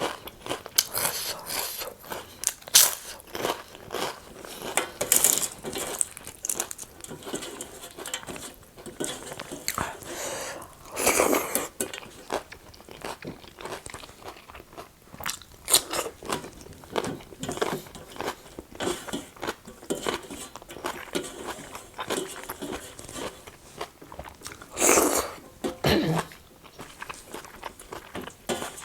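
Close-miked mukbang eating: a steady run of bites, crunching and chewing, with a couple of louder crunchy bursts, one about a third of the way in and one near the end.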